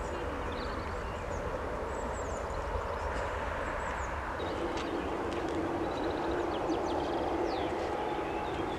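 Jet airliner engine noise: a steady rumble, with a droning tone coming in about halfway through. Small birds chirp now and then over it.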